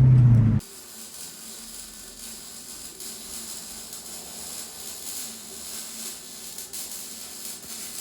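Lexus SC400's V8 running loud with its mufflers and resonators removed, cut off abruptly about half a second in. After that comes a much quieter steady hiss with faint mechanical clatter.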